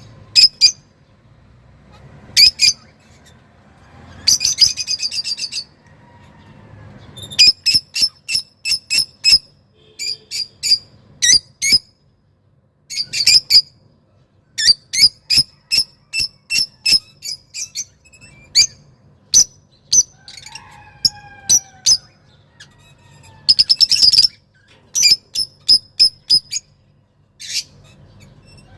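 A caged songbird (the bird kept as 'roz') singing excitedly: bursts of sharp, high, rapidly repeated notes with short pauses between, and a few lower falling whistles about two-thirds of the way through.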